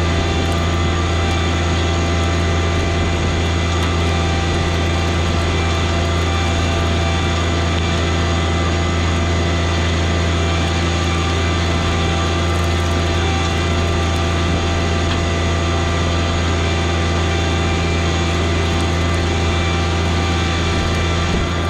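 John Deere 1023e compact tractor's three-cylinder diesel engine running steadily at a constant speed, with a droning low hum that does not change pitch.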